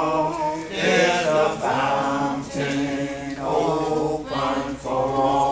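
Congregation singing a hymn a cappella in parts, mixed voices holding long notes that change about once a second.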